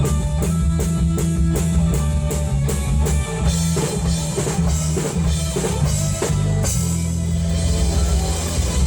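Live rock band playing: drum kit, electric guitar and bass. A fast, even cymbal beat drops away about three and a half seconds in while the bass and guitar carry on.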